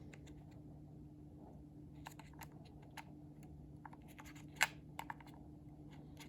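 Scattered small clicks and scrapes of battery cells being pushed into a cordless phone handset's tight battery compartment, with the sharpest click about two-thirds of the way through. A faint steady hum runs underneath.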